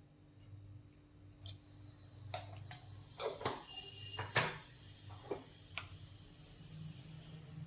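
Kitchenware clinking and knocking as it is handled: a cluster of sharp clinks in the middle, over a low steady hum.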